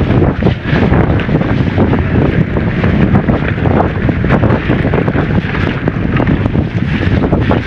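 Wind buffeting the microphone of a camera on a moving mountain bike, with frequent knocks and rattles from the bike running over rough trail.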